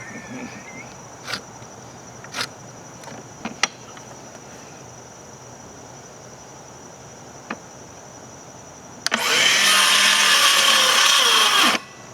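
A few light knocks, then a cordless power saw cuts into a wood board about nine seconds in, running for under three seconds before its motor winds down and stops, typical of a battery going flat.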